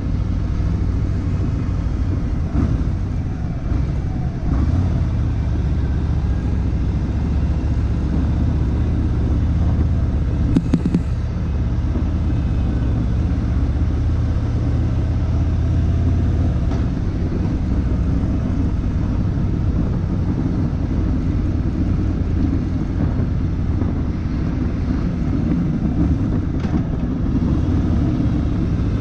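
Harley-Davidson motorcycle engine running steadily under way, a low rumble with road and wind noise; the engine's low note eases off about 17 seconds in. A brief sharp click about 11 seconds in.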